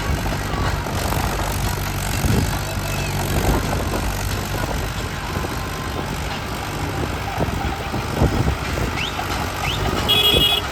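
Mahindra 575 DI tractor's four-cylinder diesel engine running steadily, with scattered knocks. There is a brief high-pitched tone near the end.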